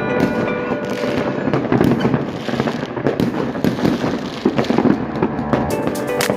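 Fireworks crackling and popping in a dense, continuous stream of many small bangs.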